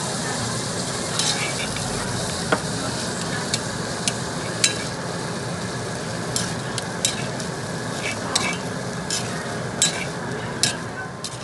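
Food sizzling and frying in a hot stone pot: a steady hiss, with scattered sharp clicks and pops throughout.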